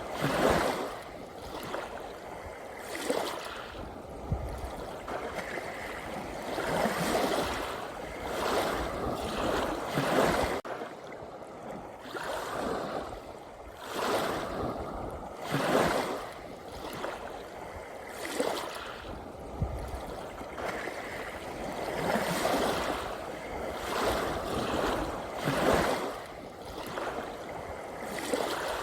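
Small ocean waves washing in and breaking, a swell of surf rising and falling every few seconds.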